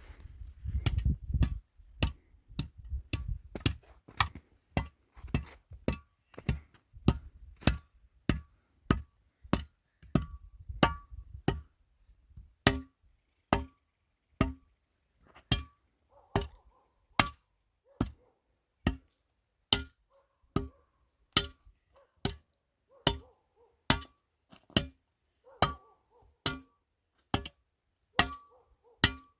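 Evenly spaced sharp knocks, roughly one to two a second and some with a faint ring, like wood being struck. A low rumble runs under them for the first dozen seconds.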